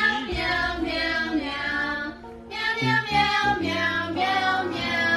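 A high, child-like voice singing a tune over backing music, in long held notes.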